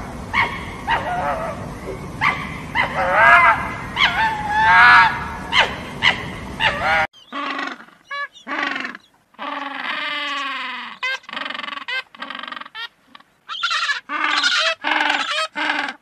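Red fox giving whining, yelping calls over a steady hiss. About seven seconds in, the sound changes abruptly to king penguins calling: a string of short calls with a strong low tone and rich overtones, broken by brief silences, including one longer call around ten seconds in.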